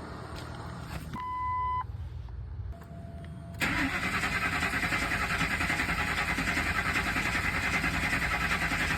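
A short dashboard chime beeps, then about three and a half seconds in the Ford F-250's engine starts and runs with a steady, pulsing beat. The running has a slight inconsistency, not too much, the sign of a misfire on cylinder 3.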